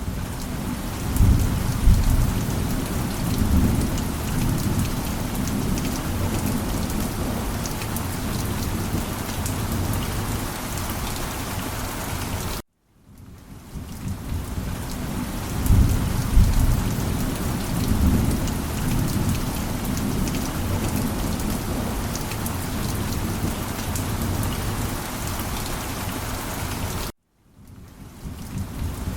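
Steady heavy rain with low rolls of thunder, one near the start and another about halfway. The sound cuts out abruptly to silence twice, about halfway and near the end, and fades back in each time as the recording loops.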